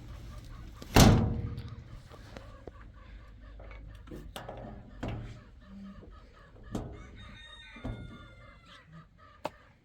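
Chickens clucking and a rooster crowing, with a loud thump about a second in.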